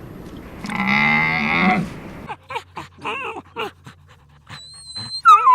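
A cow moos once, about a second long. Then a different scene: a dog, likely a puppy, gives short yips and whimpers among small clicks, ending in a loud whine that falls in pitch.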